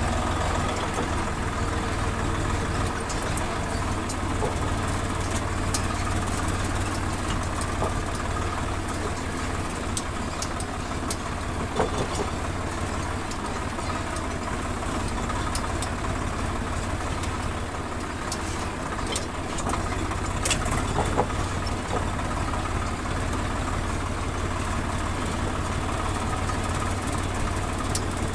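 Farm tractor's diesel engine running steadily, with a few faint clicks and rattles.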